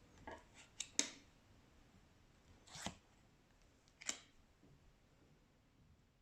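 Faint handling of glossy oracle cards: a few soft clicks and brushing swishes as cards are slid and laid down, several in the first second, then one near three seconds and another near four.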